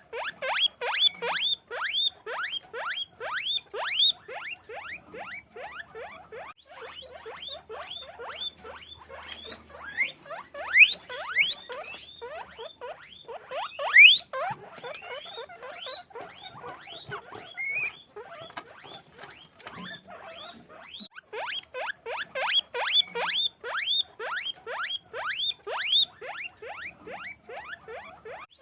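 Guinea pigs squeaking continuously in quick, repeated rising whistle-like calls (wheeking), several a second, with a few louder, higher calls about halfway through. A faint steady high-pitched tone runs underneath.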